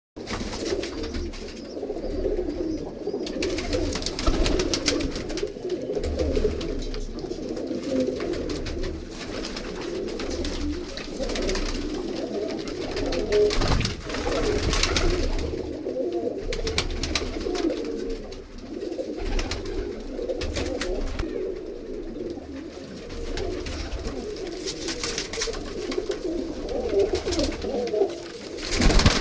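A flock of pigeons cooing, many calls overlapping without a break, with scattered short clicks among them.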